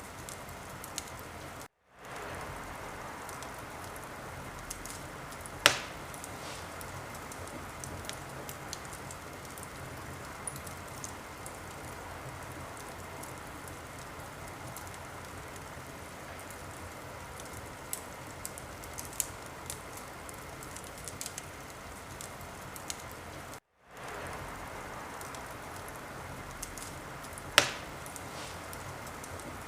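Wood fire in a fireplace crackling steadily with scattered small snaps and two sharp pops, one about six seconds in and one near the end. The sound cuts out for a split second twice.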